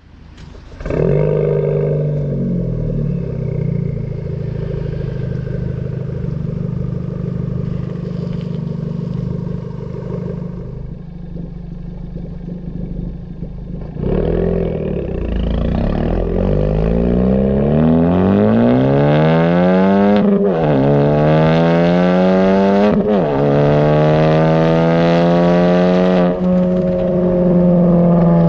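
2016 Ford Focus ST's turbocharged 2.0-litre four-cylinder running through an AWE Touring Edition non-resonated cat-back exhaust. It runs at a fairly steady pace, then revs up hard from about halfway, with two quick gear changes each heard as a short break and drop in pitch, and then holds steady at higher revs.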